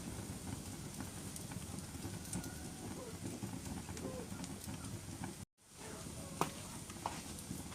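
Wood fire burning in a fireplace: a steady low rumble of flames with sharp crackles and pops scattered throughout. The sound cuts out for a split second about five and a half seconds in.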